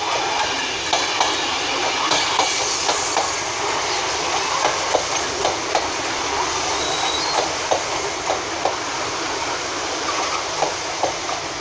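Loco-hauled passenger train led by Mark 3 driving van trailer 82152 rolling past slowly. Its wheels click over rail joints and pointwork in a steady rhythm of about two to three clicks a second, over a steady rushing noise.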